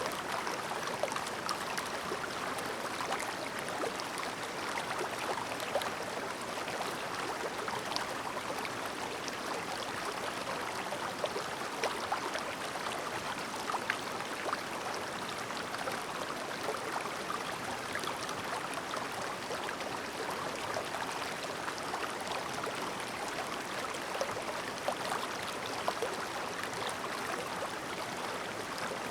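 Clear shallow stream babbling: a steady wash of flowing water dotted with many small, quick splashes and plinks.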